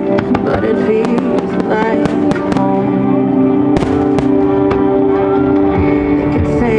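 Music accompanying a fireworks display, with repeated sharp firework bangs and crackles over it; one of the loudest reports comes a little over halfway through.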